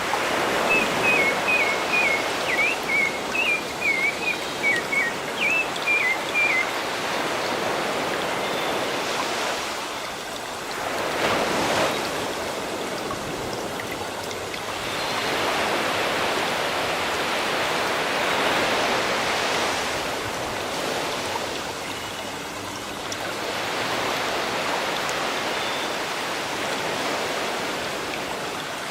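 Sea waves washing onto a shore, a steady rush that swells and fades several times. A bird chirps a quick run of short notes over the waves for the first six seconds or so.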